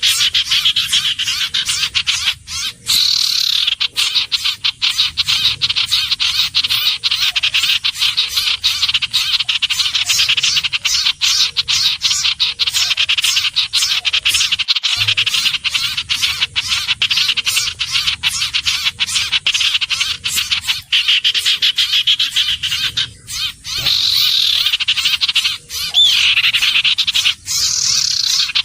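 Iora calls in a continuous, rapid, high-pitched chattering trill, with a couple of brief breaks near the end.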